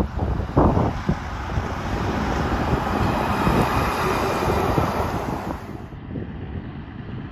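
A heavy truck driving past with a low rumble, its noise swelling over a few seconds and then dropping off sharply near the end, with wind buffeting the microphone.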